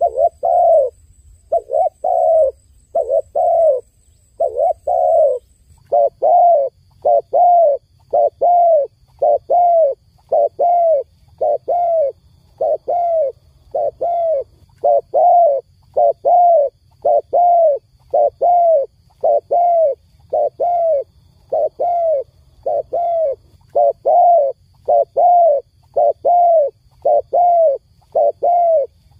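A dove cooing over and over in a steady, even rhythm of short notes, about three every two seconds.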